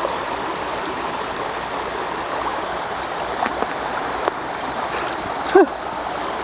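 Steady rushing sound of running water, with a few faint clicks and one brief high squeak about five and a half seconds in.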